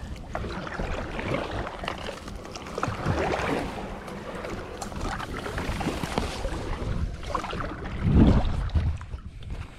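Kayak paddle strokes splashing through lake water, a swell of noise every two seconds or so, with wind on the microphone. The loudest splash comes about eight seconds in.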